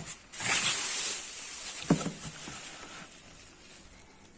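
Handling noise: a hissing rustle lasting about a second, then a single sharp knock about two seconds in, fading to a faint background hiss.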